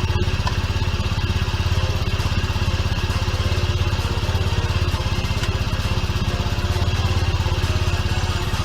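Engine idling steadily with a fast, even exhaust pulse.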